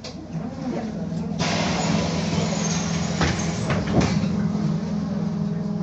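BKM-221 trolleybus: a steady electrical hum, then about one and a half seconds in a loud hiss of compressed air from the pneumatic system lasting a couple of seconds, with two knocks near its end.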